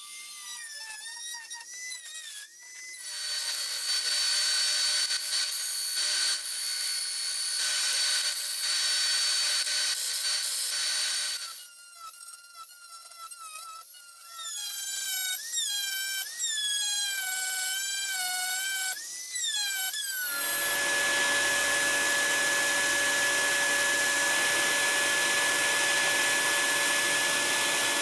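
Small electric power tool running in stretches, its motor whine dipping and recovering in pitch, with rougher grinding noise in between. About two-thirds of the way in it settles into a steadier, louder run with an even hum.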